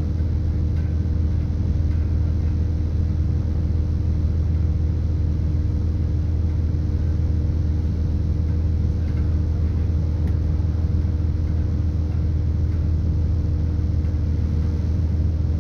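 Steady rumble and hum of a British Rail Class 170 Turbostar diesel multiple unit running along the line, heard inside the carriage: its underfloor 13.6-litre MTU turbo diesel engine with Voith hydraulic transmission, together with wheel and track noise.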